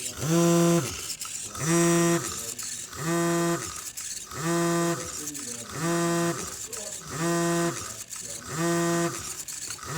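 A motor in the coffee machine switching on and off in a steady cycle: about eight humming pulses, each about half a second long, rising in pitch as it spins up and falling as it stops, repeating every second and a bit.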